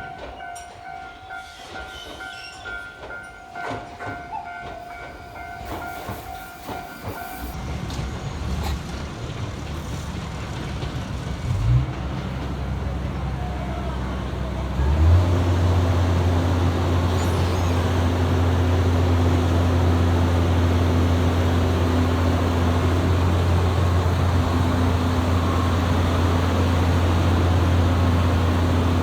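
Diesel engine of the Botchan Ressha replica steam locomotive running: a faint low hum builds in the first half, then about halfway through it steps up into a loud, steady low drone. A steady high two-note tone sounds over the first several seconds before fading out.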